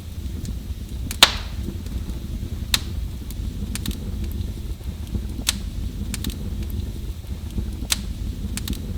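Wood fire crackling in a fireplace: sharp pops every second or two over a steady low rumble, the loudest pop about a second in.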